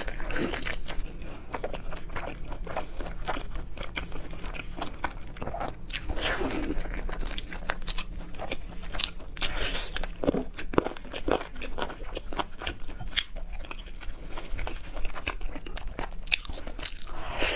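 Close-miked eating of seafood: steady chewing and crunching with many sharp wet mouth clicks, and a few longer smacking sounds now and then.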